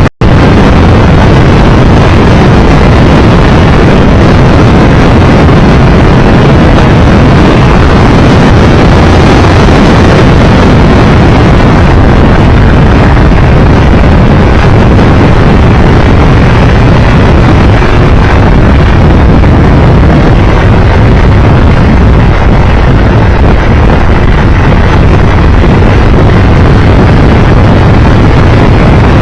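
Steady, loud wind rush over the microphone, mixed with engine and road noise from a Triumph Tiger 1200 Explorer motorcycle riding at speed. The sound drops out for an instant right at the start.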